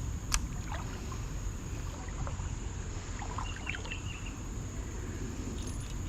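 Creek ambience on an action camera: a steady low rumble of moving water and wind, under a high steady insect drone. One sharp click comes about a third of a second in, and a few faint chirps follow around halfway through.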